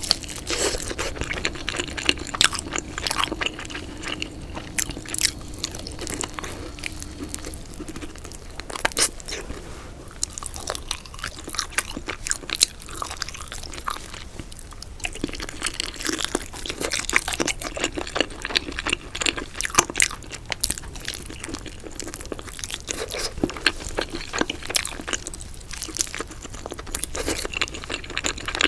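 Close-up chewing and biting of crunchy food, with many irregular sharp crunches.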